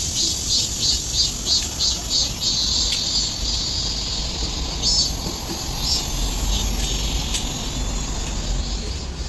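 Insects chirping in high pulses, about three a second at first and then more irregular, over a low steady hum.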